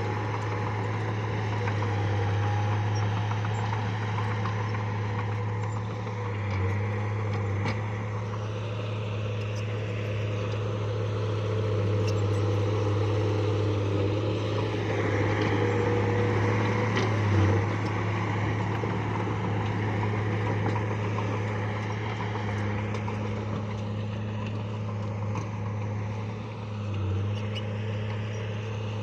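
Bulldozer's diesel engine running steadily under load, a constant low drone, with a few brief knocks, the loudest about 17 seconds in.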